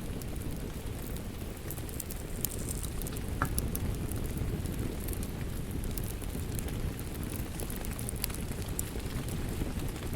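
Wood fire crackling in a fireplace, scattered sharp pops over a steady low rumble, one stronger pop about three and a half seconds in, blended with steady rain.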